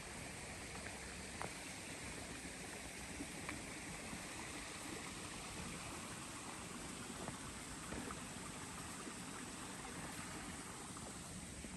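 Steady rushing of a mountain stream flowing over rocks, with a few faint taps scattered through it.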